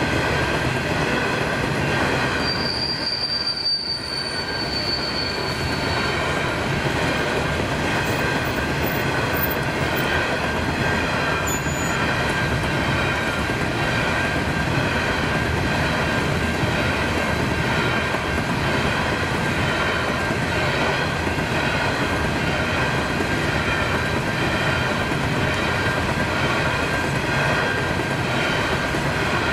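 Coal hopper wagons rolling steadily through the level crossing, with steady wheel-on-rail noise and a thin high wheel squeal from about 2 to 6 seconds in. The crossing's warning bell keeps ringing underneath while the gates are down.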